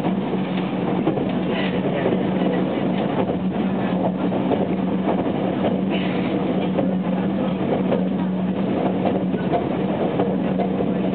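Running noise heard from inside a car of a JR West 287 series limited express train under way: a steady rumble of wheels on rail, with a low steady hum that fades near the end.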